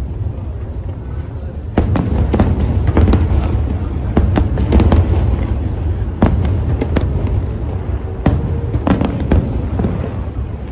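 Aerial fireworks shells bursting one after another. There are sharp cracks, some in quick clusters, every half second to a second, over a continuous low rumble of booms. The display gets louder about two seconds in.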